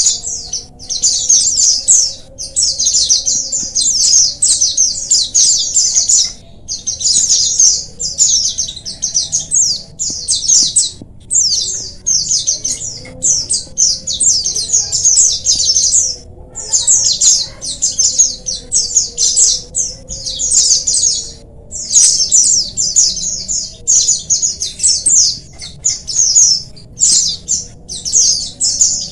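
Many white-eyes (pleci) twittering and singing together: rapid high chirping in phrases a few seconds long, broken by short pauses.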